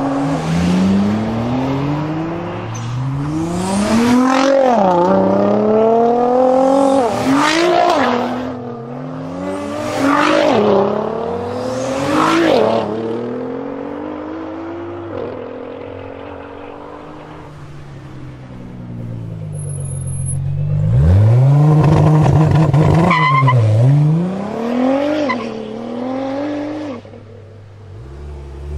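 Nissan GT-R R35's twin-turbo V6 accelerating hard through the gears, heard from a car following behind. The engine note climbs and drops back sharply at each quick upshift, five times in the first half. It eases off and falls quieter around the middle, then pulls again with a loud climb and a few more upshifts.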